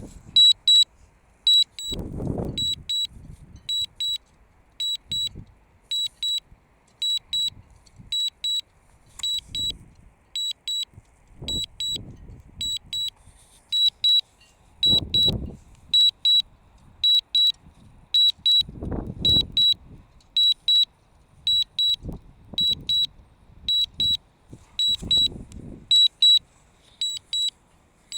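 Warning beeps from the DJI Mavic Mini's remote controller: short, high-pitched double beeps repeating a little more than once a second, the low-battery and return-to-home alarm. Gusts of wind rumble on the microphone now and then.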